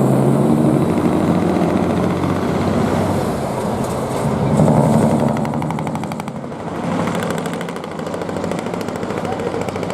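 Diesel truck engine with a split exhaust manifold (mani-wari) and a vertical stack muffler, running past with a loud, deep exhaust note. It swells twice, and a rapid, even pulsing runs through it for a few seconds in the middle.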